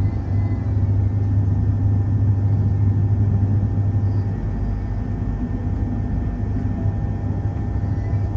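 Electric suburban train heard from inside a passenger carriage: a steady low hum and rumble, with faint steady whining tones above it.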